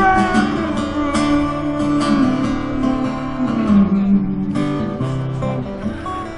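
Acoustic guitar strummed in the instrumental break of a live song, with no singing.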